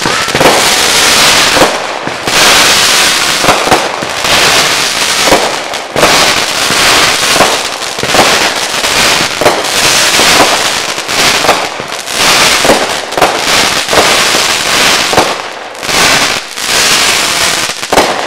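Consumer fireworks firing: a loud, nearly continuous stream of crackles, pops and hiss, with brief lulls about two seconds in and again near the end.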